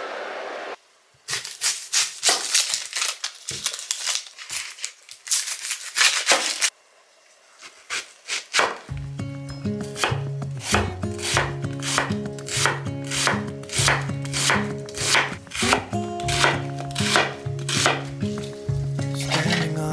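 Knife chopping on a cutting board in quick, repeated strokes, pausing briefly after about seven seconds. Background music comes in about nine seconds in while the chopping goes on.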